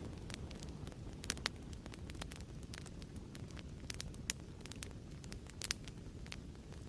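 Fireplace crackling: a steady low rumble of burning with frequent irregular sharp pops and snaps from the burning wood, a few louder ones standing out.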